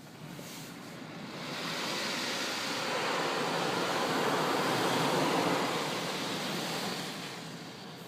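Automatic car wash spraying water over the car, heard from inside the car: a rushing hiss that builds after a second or so, is loudest past the middle and fades near the end.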